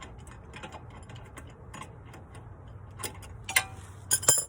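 Hand ratchet wrench working a bolt on a car's front suspension, clicking lightly several times a second, then a few louder ringing clinks of metal tools near the end.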